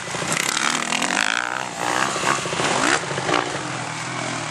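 Motocross bike engine revving, its pitch rising and falling over the first few seconds, then running more steadily.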